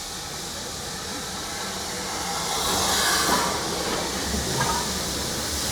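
Steam train at a station: a steady rumble with a broad hiss of steam that swells about halfway through.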